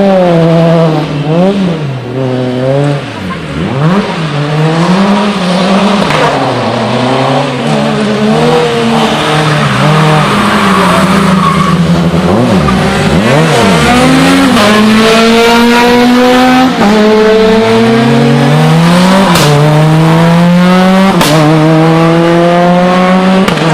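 Rally car engine working hard. The revs swing up and down through the first half and drop away sharply twice. Over the last ten seconds it makes a series of rising runs, each cut by a quick upshift.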